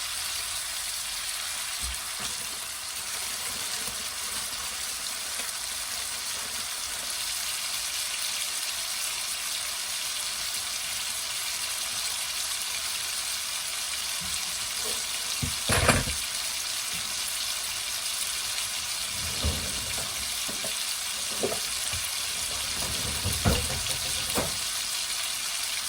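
Food frying in a pan with a steady sizzle. There is one sharp knock about two-thirds of the way through, then a few lighter knocks near the end, like a utensil against the pan.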